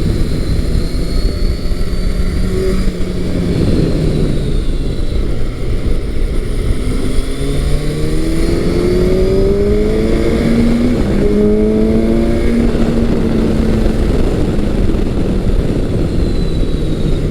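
Kawasaki Versys 1000 LT's inline-four engine under riding load. It holds a steady note at first, then accelerates hard through several gears about halfway through, its pitch rising and dropping back at each shift, over constant wind and road noise.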